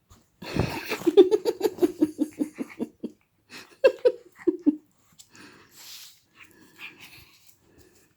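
A dog making a quick run of breathy, pulsed vocal noises, about six a second, then a few more short bursts and softer breathing sounds.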